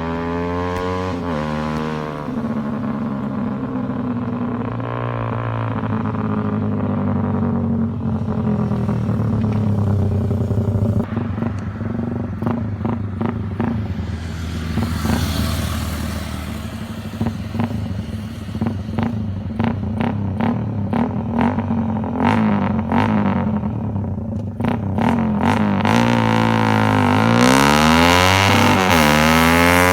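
Suzuki Raider 150 single-cylinder motorcycle engine through a Daengsai4 open exhaust pipe, revving up and down as the bike is ridden, its pitch climbing and dropping with the throttle and gear changes. A string of sharp crackles runs through the middle stretch, and the engine grows louder near the end as the bike comes close.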